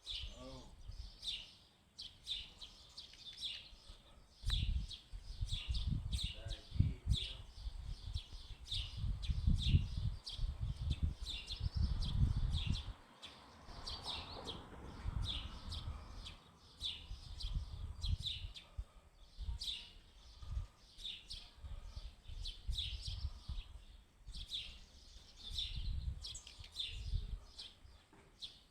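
Black redstart chicks chirping: many short, high calls repeated several times a second. Intermittent low rumbles come and go underneath.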